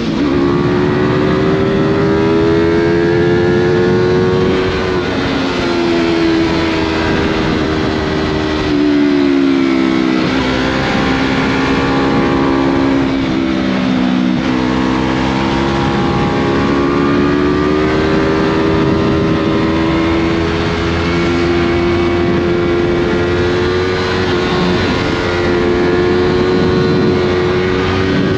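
Yamaha MT-03 motorcycle with a Scorpion full-system aftermarket exhaust running under way, its engine pitch rising and falling with the throttle. The pitch drops about a third of the way in, dips again around the middle, then climbs and holds fairly steady.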